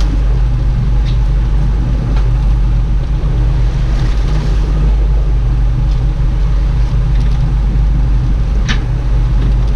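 Boat engine running steadily, a low, even drone. A brief sharp click comes near the end.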